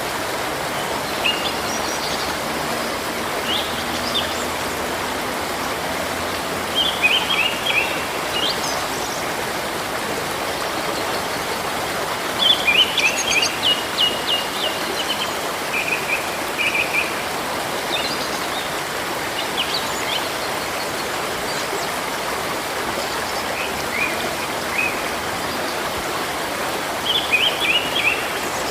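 Steady rush of a river, with small birds chirping in short, quick bursts over it, busiest about a quarter of the way in, around the middle, and again near the end.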